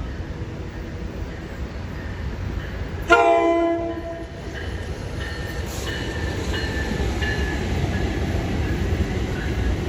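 A passenger train's horn sounds a short, loud blast about three seconds in, after an earlier horn note fades at the start. The low rumble of the train then builds steadily as it draws near.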